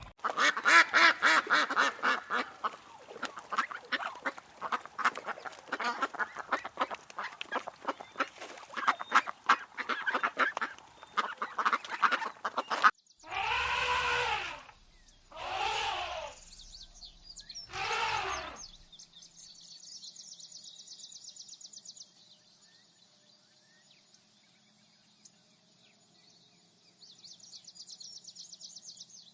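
A flock of ducks quacking in a dense, rapid chatter for about thirteen seconds. Then come three separate drawn-out calls about two seconds apart, followed by a quieter steady high-pitched buzz.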